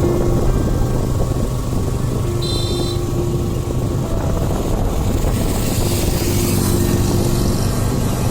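Motorcycle running on the move: a steady engine drone under a dense low rumble. A brief high beep sounds about two and a half seconds in.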